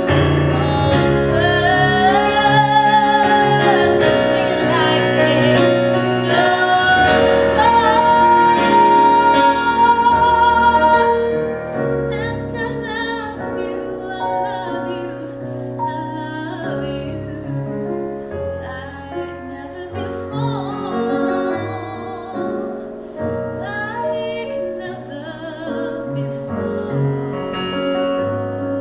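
A woman singing a slow ballad with piano accompaniment, holding long notes with vibrato. The singing is loud and full at first and drops to a softer, quieter passage about eleven seconds in.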